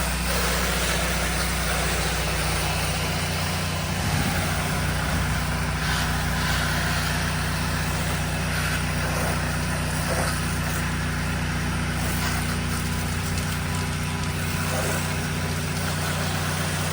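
Pressure washer's gas engine running steadily, with a steady hiss over it.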